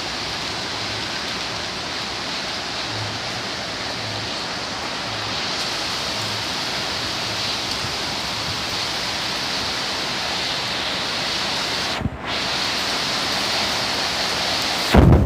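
Torrential rain and gusting wind of a tropical storm, a steady loud rush. It drops out briefly near the end, then a loud low buffet hits just before it ends.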